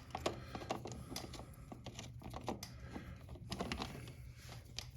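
Chain press tool being backed off and taken off a motorcycle drive chain: irregular light clicks and taps of metal tool parts.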